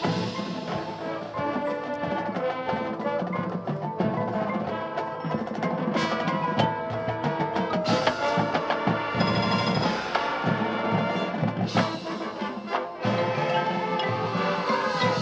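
High school marching band playing its field show, with mallet percussion (marimba, xylophone, bells) prominent over drums and sharp struck accents.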